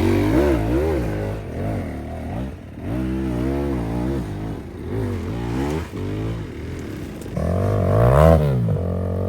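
Off-road motorcycle engine revved hard in repeated bursts, the pitch rising and falling with each blip of the throttle. It is loudest near the end, as a rider works to get up a steep climb.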